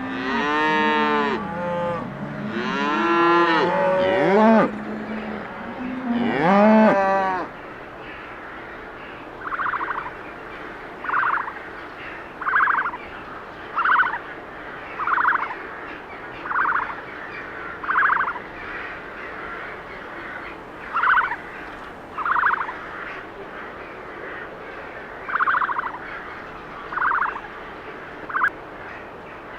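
A cow mooing three times in the first seven seconds or so, in long calls that bend in pitch. After that, a bird gives a string of short, evenly spaced calls, about one every second and a half.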